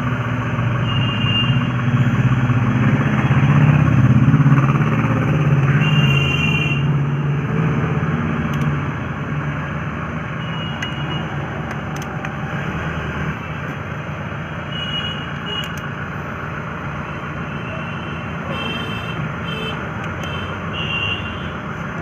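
A motor vehicle engine idling steadily, running louder for the first several seconds and then settling to a lower, even level, with a few light clicks over it.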